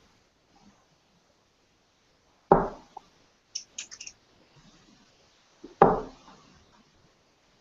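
Two darts hitting a dartboard, one thud about two and a half seconds in and another about three seconds later, with a few light clicks between them.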